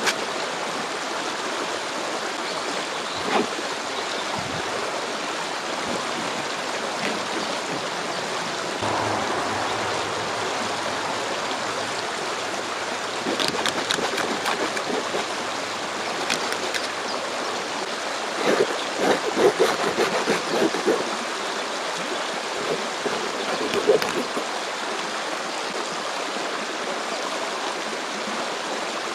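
A stream of flowing water running steadily. A few short knocks or handling sounds break through it, mostly in a cluster a little past the middle and once more near the end.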